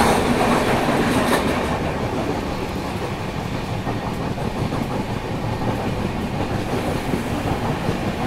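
Passenger train running at speed: the steady rumble of LHB coach wheels on the rails, with a few faint clicks over the rail joints, heard from an open coach doorway.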